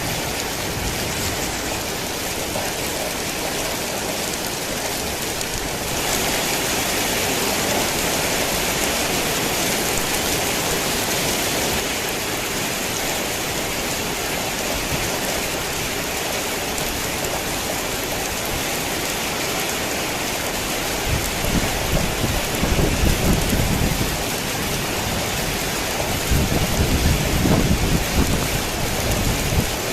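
Heavy rain pouring in a dense, steady hiss, growing louder and brighter for several seconds about a fifth of the way in. Thunder rumbles low twice in the second half, once about two-thirds of the way through and again near the end.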